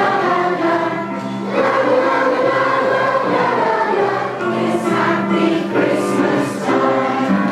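A children's choir singing, with notes held and gliding between them.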